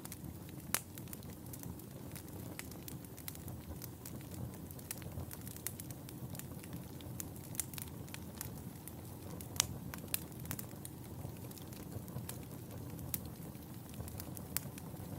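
Wood fire burning in a fireplace: a steady low rumble of flames with frequent irregular sharp crackles and pops, a couple of them louder than the rest.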